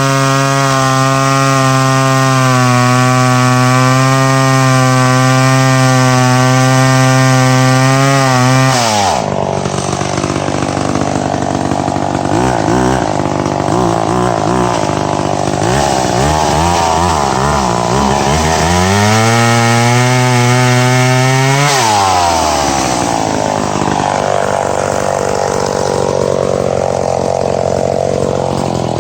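Chainsaw held at high revs for about nine seconds, then dropping to a low, uneven idle. It revs up again briefly at about 19 seconds, falls back about three seconds later, and idles to the end.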